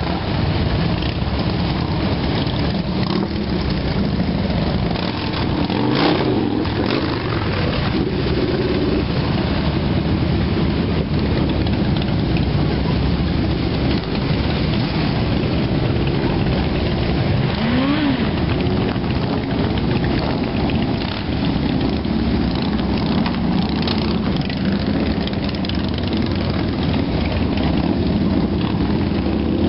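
A large group of motorcycles riding on a road, a dense, continuous engine rumble whose pitch rises and falls several times as individual bikes rev or pass.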